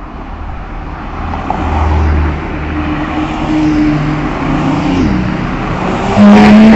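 Road traffic: car engines passing, their pitch rising and falling. A louder engine note comes in sharply near the end.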